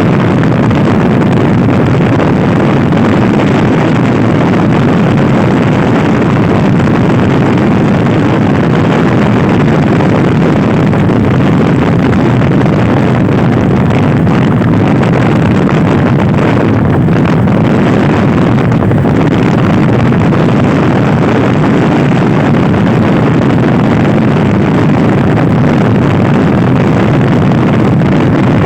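Loud, steady wind rush buffeting the microphone of a Honda Scoopy i scooter ridden at speed, covering the engine sound.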